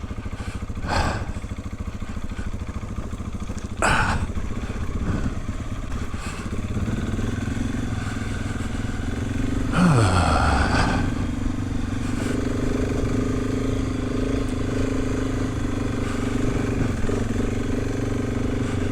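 Motorcycle engine running while the bike is ridden along a dirt trail, with a few short, louder surges of noise. From about seven seconds in, the engine holds a steady note.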